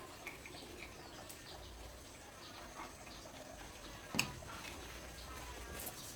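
Faint outdoor background with a few short, high chirps in the first second, and a single sharp knock about four seconds in.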